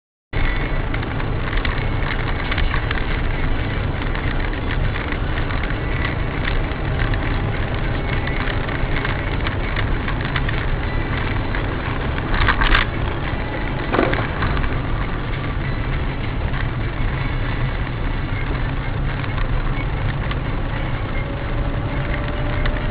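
Steady road and engine noise inside a moving car, recorded by a dashcam. About twelve and a half seconds in comes a loud crunch, followed by a sharp knock a second and a half later.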